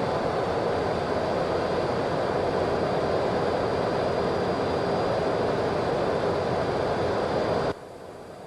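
Steady rushing flight-deck noise of a Boeing 737-200 in flight on descent: airflow and engine noise heard inside the cockpit, with a thin high whine over it. It drops abruptly to a much lower level near the end.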